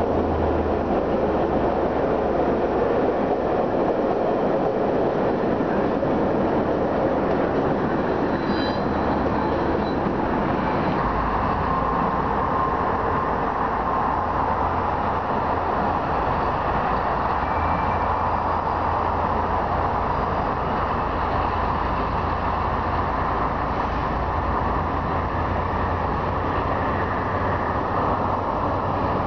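Diesel passenger train running along the track, its engine and wheels making a steady rumble.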